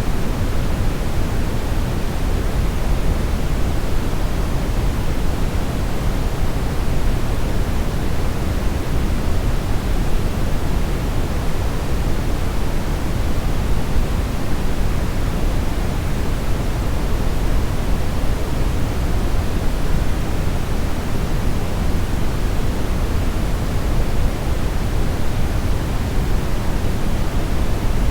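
Steady brownish noise: an even, unbroken rushing hiss weighted toward the low end, with little high treble.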